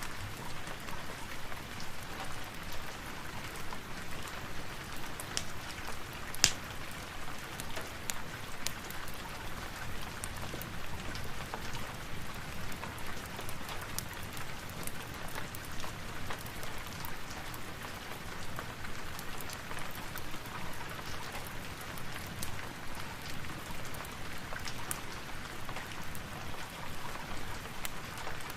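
Steady rain, dotted with scattered sharp crackles and one louder pop about six and a half seconds in.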